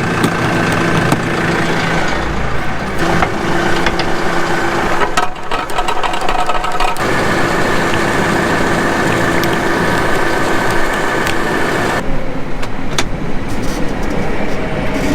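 John Deere 9500 combine running steadily under load, a continuous machine hum with steady tones that change abruptly several times.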